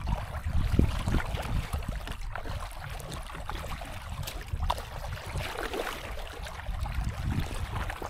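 Wind buffeting the microphone in uneven low gusts, with scattered small clicks and splashes over it, typical of being out on the river in a boat.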